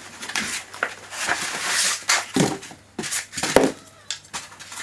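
Cardboard and polystyrene packaging being handled as large parts are lifted out of a box: irregular rustling and scraping with a few sharp knocks and short squeaks, the loudest about three and a half seconds in.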